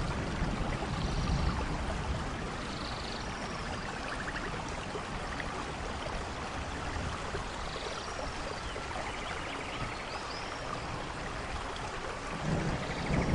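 Steady rainfall hissing evenly, with a low rumble of thunder building near the end.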